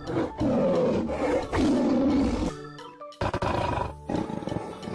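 Lion roar sound effect played twice over background music.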